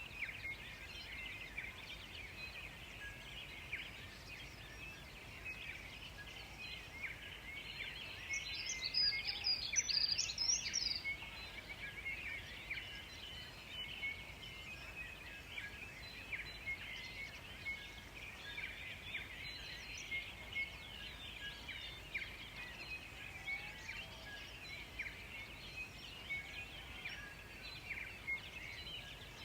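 Forest birds chirping and calling without pause, in a dense chorus of short high notes. About eight seconds in, one bird sings a louder, higher phrase lasting a few seconds.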